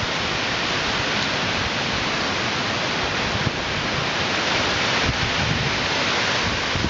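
Heavy rain and wind of a hurricane feeder band: a steady, dense rushing hiss with occasional low buffeting from gusts.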